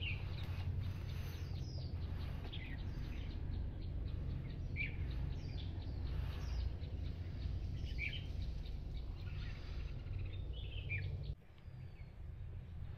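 Birds calling, short downward-sliding chirps every second or two, over a steady low rumble that drops away suddenly near the end.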